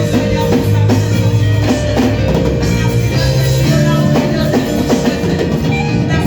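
Live church band music with a steady drum beat, bass and guitar.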